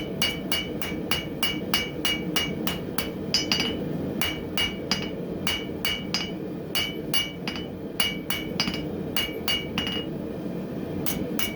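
Hand hammer striking hot coil-spring steel on an anvil in a steady rhythm of about three blows a second, each blow ringing, with two short pauses. A steady noise of the forge running lies underneath.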